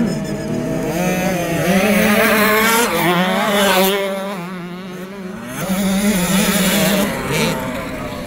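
Several 65 cc two-stroke motocross bikes racing, their engines revving up and down through the gears as they pass. The sound drops for a moment about halfway through, then comes back up.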